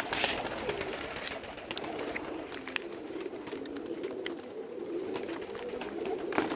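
Pigeons cooing steadily, in a low wavering drone of overlapping coos, with scattered light clicks and taps and a sharper click near the end.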